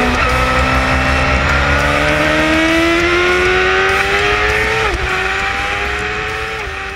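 Suzuki racing motorcycle engine pulling hard on track, heard from an onboard camera with wind rush: its pitch climbs steadily, then drops sharply at an upshift about five seconds in and again near the end. The sound fades out in the last seconds.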